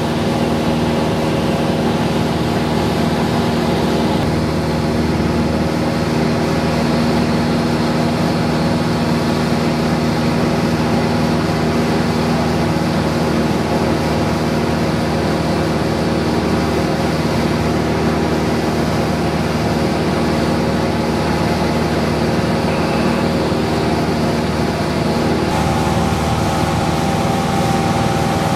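Cessna 172's piston engine and propeller running steadily in flight, heard inside the cockpit as an even, unchanging drone.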